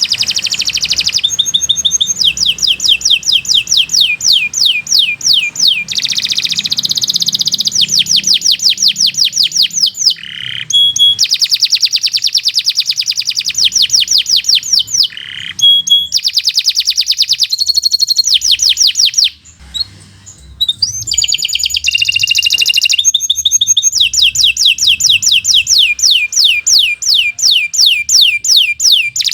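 Domestic canary singing long, fast trills: runs of rapidly repeated notes that change speed and pitch every couple of seconds, with a brief break about two-thirds of the way through.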